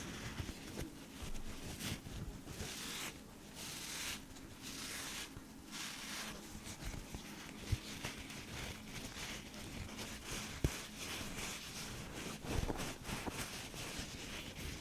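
Soft rustling and scratching ASMR trigger sounds in repeated swishes, with two sharp taps about eight and eleven seconds in.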